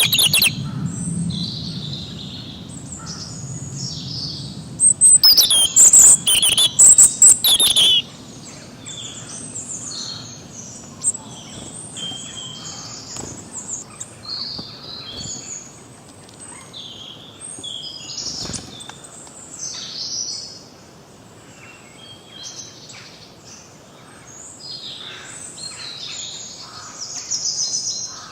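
Several songbirds chirping and singing together in a chorus of short, high chirps and warbles. A much louder stretch of rapid chirping comes about five seconds in and lasts some three seconds.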